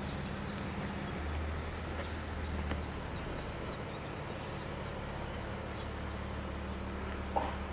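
Outdoor ambience: a steady low hum with small birds chirping briefly now and then.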